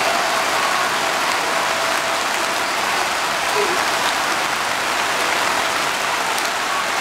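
Heavy rain falling steadily: a dense, even hiss of drops on the ground.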